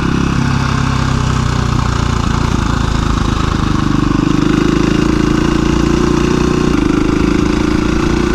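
2017 KTM 350 EXC-F's single-cylinder four-stroke engine running at low revs as the dual-sport bike putters slowly along a trail. The engine note shifts slightly about three and a half seconds in.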